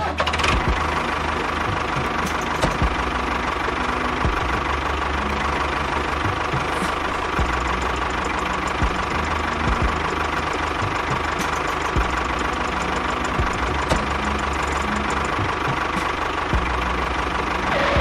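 Small engine running steadily with a knocking chug and a steady whine, its low rumble coming and going several times.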